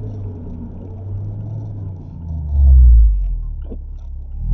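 Mazda MX-5 ND's engine and road rumble heard from inside the moving car. A low drone swells much louder for about a second midway, then settles back.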